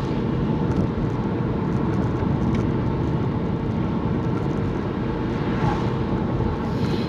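Steady road and engine noise heard from inside a moving car's cabin, an even low rumble with tyre hiss.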